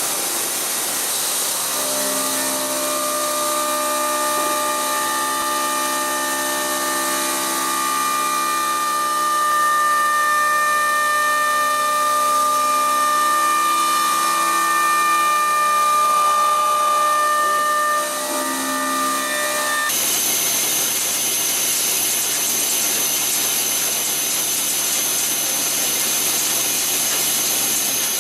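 Heavy-duty 5-axis CNC milling machine running, its spindle and cutting giving a steady multi-tone whine over a high hiss. About two-thirds through the sound changes abruptly: the lower tones drop away, leaving a brighter hiss with high steady tones.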